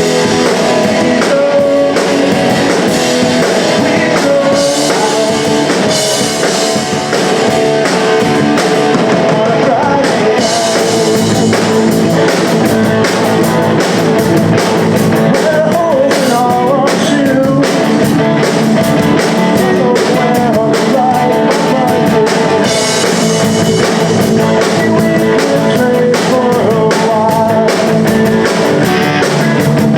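Punk rock band playing live: guitars and drum kit with sung vocals.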